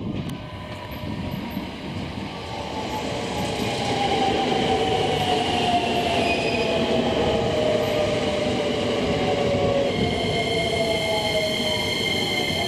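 Electric train running on the rails, growing louder over the first few seconds, with a whine that falls slowly in pitch; about ten seconds in, steady high squealing tones join it.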